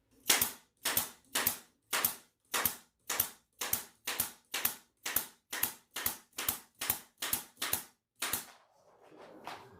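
Staple gun firing staples to fasten stretched pool table bed felt, about seventeen sharp shots at an even pace of roughly two a second, stopping a little past eight seconds.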